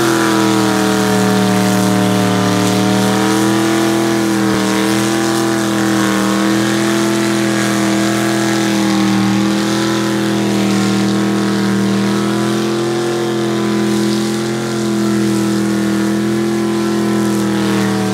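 1955 Chevrolet sedan delivery's engine held at steady high revs during a burnout, its rear tyres spinning on the tarmac and smoking. The engine note is loud and nearly constant, wavering only slightly.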